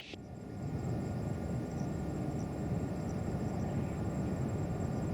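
Distant jet airliner engines rumbling: a steady low roar that builds over the first second and then holds.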